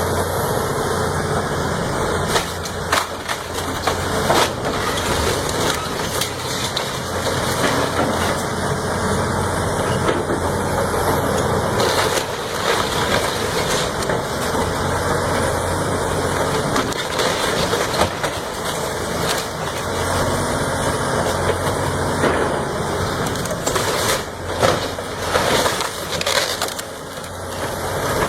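Heavy diesel machinery running steadily while wood is crushed and splintered, with sharp cracks and crunches breaking through, thickest about three seconds in and again near the end.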